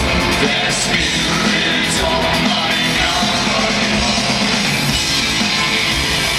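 Rock band playing live and loud, with drums and distorted guitars in a dense, unbroken mix.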